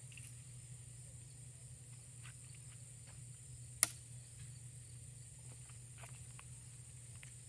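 Steady high chirring of insects outdoors, with faint scattered ticks and one sharp snap about four seconds in.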